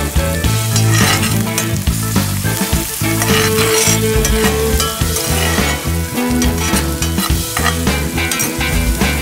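Diced garlic, onion and tomato sizzling in oil in a cast iron skillet, stirred and scraped around the pan with a metal spoon. Background music with a steady bass line plays underneath.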